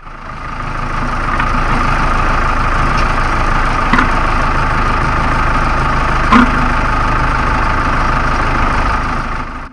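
Tractor engine running steadily under load while mowing grass, with two short sharp knocks about four and six and a half seconds in, the second the louder.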